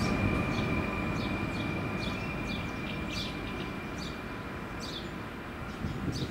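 Fertagus Series 3500 double-deck electric train pulling away and receding, its low rumble and a steady high whine fading out. Short high chirps sound over it throughout.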